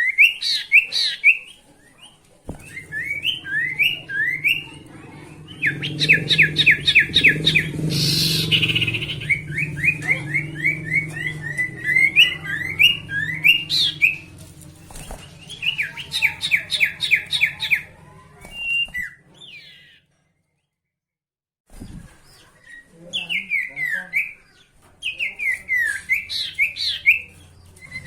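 Sirtu (ashy tailorbird) singing: fast phrases of short, sharply rising chirps, repeated again and again with short pauses between phrases. The sound drops out completely for about two seconds near the two-thirds mark, then the singing resumes.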